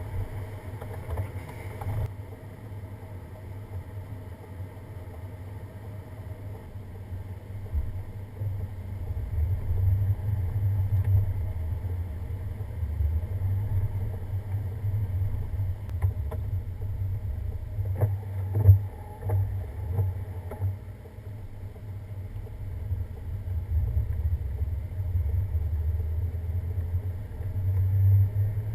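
Low rumble of a vehicle travelling on a snow-covered winter road, swelling and easing, with a few knocks about two-thirds of the way through.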